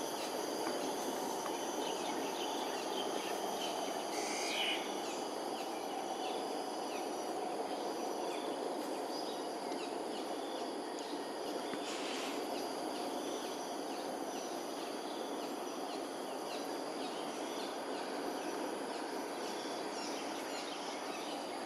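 Outdoor morning ambience: steady high insect trilling over a constant low background rumble, with a few short bird calls, one about four seconds in and another about twelve seconds in.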